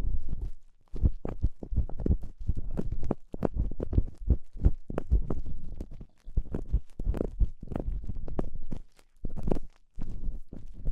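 Ear pick scratching and rubbing inside the ear of a binaural microphone, in quick, irregular strokes with a few short pauses.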